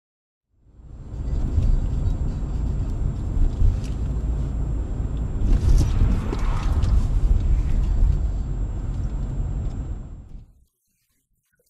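A moving car's low road and engine rumble picked up by a dashcam microphone, with a faint steady high whine over it. About six seconds in, a louder stretch of knocks and clatter breaks through. The sound starts half a second in and cuts off abruptly near the end.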